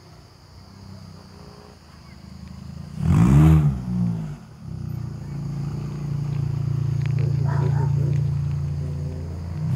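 Volkswagen Jetta 2.5's five-cylinder engine, fitted with an aftermarket cold-air intake, revs sharply once about three seconds in and then runs at a steady hum.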